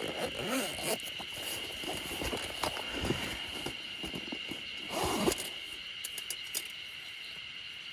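Rustling and light knocks from gear being handled, with a louder rustle about five seconds in, over a steady high-pitched insect drone.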